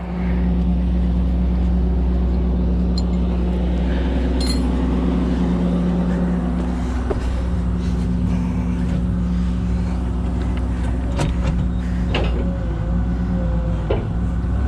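Kobelco SK250 LC excavator's diesel engine running steadily, picking up right at the start, with a slight shift in its note partway through.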